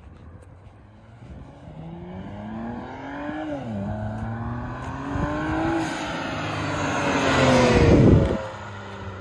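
BMW E92 335i's twin-turbo inline-six with a VRSF street exhaust and catless downpipes accelerating past: the pitch climbs, drops once at an upshift about three and a half seconds in, climbs again, and the car is loudest about eight seconds in as the pitch falls and the sound fades away.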